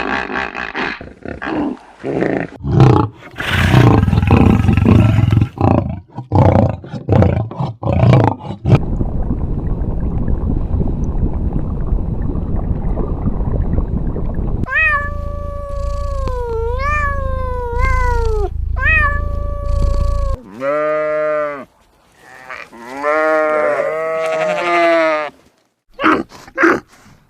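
A run of animal calls from several cuts: loud, rough roaring calls repeated for about the first nine seconds, then a steady low rumbling noise, then from about halfway a series of clear, high calls that glide up and down in pitch.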